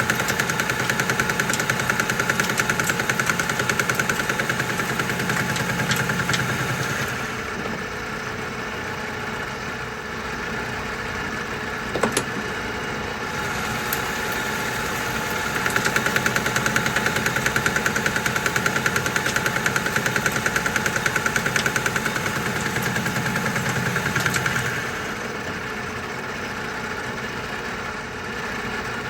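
Metal lathe running while a boring bar bores out a hole in a steel plate, with a fast, even pulsing. The sound is louder for two long stretches, at the start and again in the second half, dropping back in between, with a single sharp click partway through.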